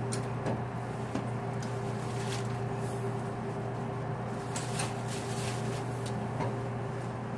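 Cabin sound of a JR Kyushu Series 783 electric train moving slowly out of a station: a steady hum with a rumbling bed, and a scattering of sharp clicks and knocks.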